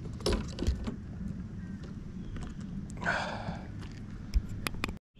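Light clicks and knocks of fishing gear handled on a kayak, with a short swish about three seconds in, over a steady low rumble.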